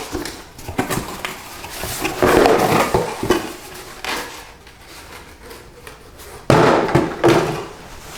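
Handling noise from a replacement tractor air filter being turned over and examined: irregular knocks and clicks, with two longer stretches of rustling scraping, one about two seconds in and a louder one past the middle.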